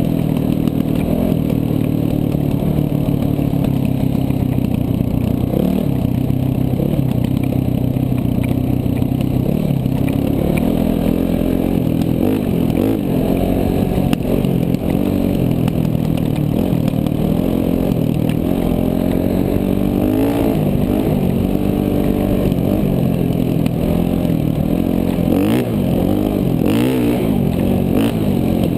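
KTM 450 dual-sport motorcycle's single-cylinder four-stroke engine running while riding, its pitch rising and falling over and over as the throttle is opened and closed, with a few brief knocks near the end.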